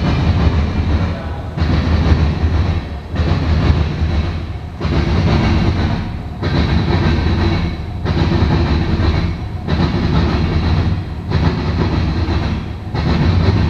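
Tank cars of a Norfolk Southern mixed freight train rolling past, their steel wheels running on the rails with a loud rumble. The rumble swells and dips about every second and a half as each car goes by.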